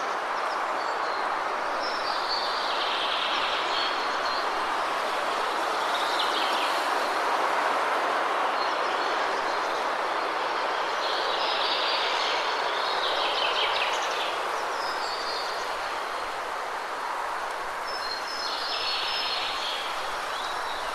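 Waterfall rushing steadily, with birds chirping over it in short spells several times.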